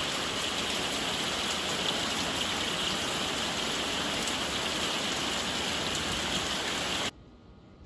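Steady rain falling, a dense even hiss that cuts off abruptly about seven seconds in.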